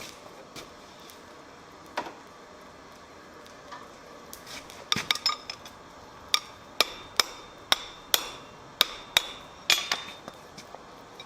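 Blacksmith's hammer striking half-inch square mild steel bar on an anvil. One blow comes about two seconds in, then from about halfway through a run of about a dozen sharp, ringing blows at roughly two a second.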